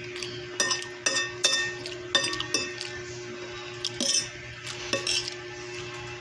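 Metal cutlery clinking and scraping against a plate while eating pancit and rice: about five sharp, ringing clinks in the first three seconds, then a few softer ones.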